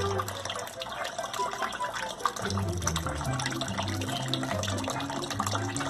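Wet, crackly clicking of a parrot eating juicy watermelon, over background music with a steady bass line.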